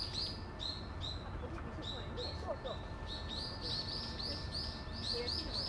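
Small birds chirping, a dense run of short, repeated calls, several a second and overlapping, over a low steady rumble.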